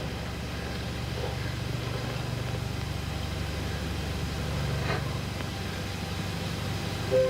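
A small motor running steadily with a low, even hum.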